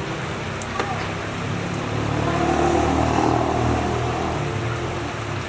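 Steady heavy rain hiss, with a low rumble that swells to a peak in the middle and then fades, like a vehicle passing.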